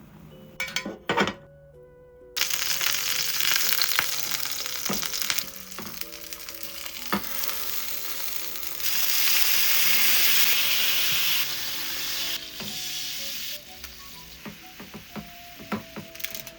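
Food sizzling in hot oil in a pan while being stirred. It starts suddenly about two seconds in after a couple of utensil clicks, grows louder partway through, then dies down near the end.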